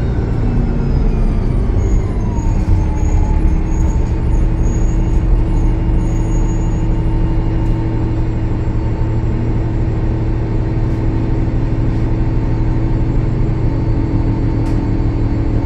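Diesel city bus with a Cummins ISL9 engine running. Its whining tones fall in pitch over the first few seconds as it slows, then it runs at a steady speed with a constant whine over a deep hum.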